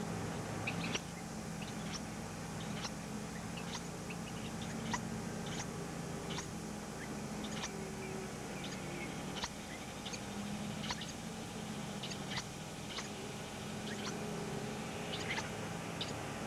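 Baby birds in the nest giving short, high peeps, scattered irregularly, over a steady low hum.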